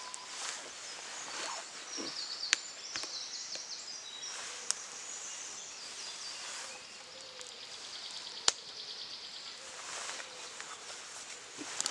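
Outdoor ambience with faint birdsong and three sharp, separate snaps, the loudest sounds.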